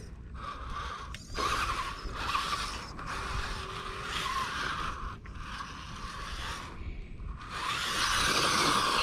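Axial Capra RC rock crawler's electric motor and geared drivetrain whirring in several throttle bursts of one to a few seconds, with short pauses between, as it tries to climb a rock.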